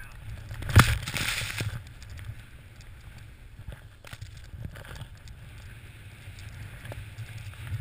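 Snowboard riding through fresh powder with a steady low rumble of wind on the microphone and scattered clicks. A sharp knock comes about a second in, followed by about a second of hiss.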